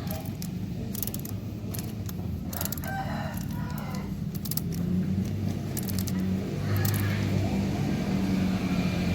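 A rooster crowing about three seconds in, with another call near seven seconds, over a steady low engine hum and scattered clicks.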